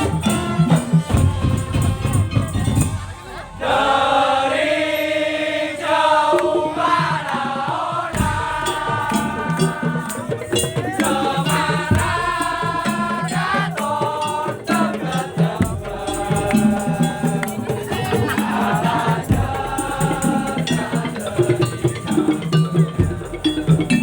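Madurese tong-tong ensemble playing: rattling percussion and drums keep a steady beat, with a wavering melodic lead line over them in phrases starting about four seconds in, after a brief drop.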